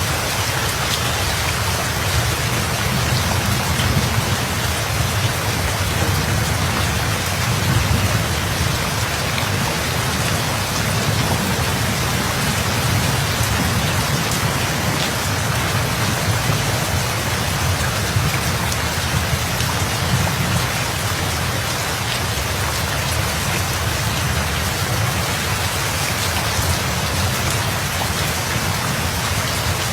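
Steady rain falling on a surface, with a low, continuous rumble of thunder underneath.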